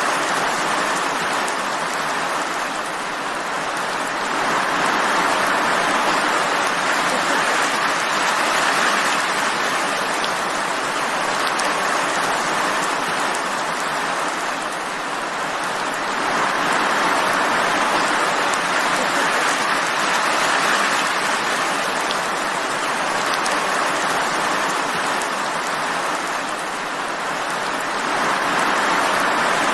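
Steady rainfall, an even hiss that swells and eases gently every several seconds.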